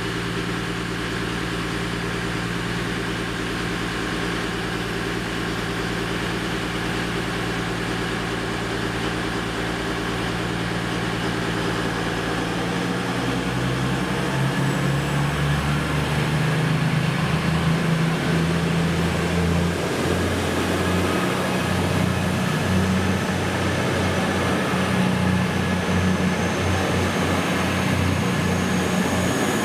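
Class 222 Meridian diesel multiple unit's underfloor Cummins diesel engines running steadily at idle, then powering up about halfway through as the train pulls away, the engine note changing and growing a little louder. A faint rising whine comes in near the end.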